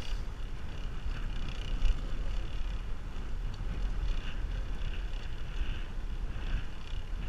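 Wind buffeting the microphone while riding a bicycle: a steady low rumble with rushing noise over it.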